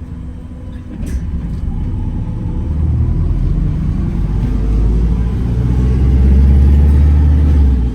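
Gemini 2 hybrid double-decker bus running on the road, its deep engine rumble building up over several seconds and then dropping off suddenly near the end.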